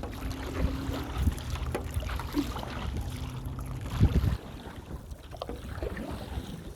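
Wind buffeting the microphone, a low rumbling noise with a strong gust about four seconds in, over a steady low hum that fades after about three and a half seconds.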